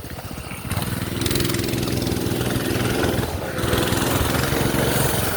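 Minibike's small gas engine ticking over in quick pulses, then throttling up about a second in and running steadily, with a brief dip in revs past the middle.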